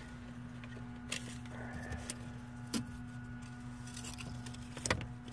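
A few light clicks and knocks from tools and materials being handled, three separate ones, the last the loudest, over a steady low hum.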